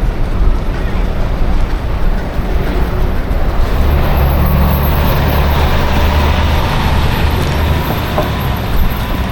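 City street traffic heard from a bicycle: a steady noise of motor vehicles, with a heavier engine rumble from about four seconds in until about eight seconds, as of a large vehicle close by.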